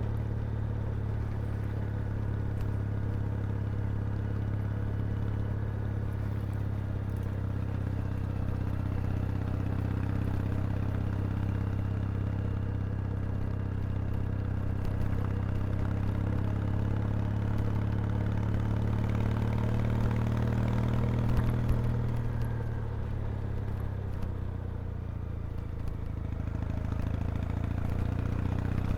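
Kawasaki W800's vertical-twin engine and exhaust running steadily under way, the revs climbing slowly, dropping back a little over a second past the two-thirds mark and picking up again near the end.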